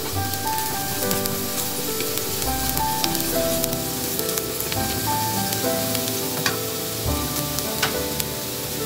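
Minced garlic sizzling steadily in hot oil in a nonstick pan while it browns, stirred with wooden chopsticks that click against the pan now and then. Background music plays over it.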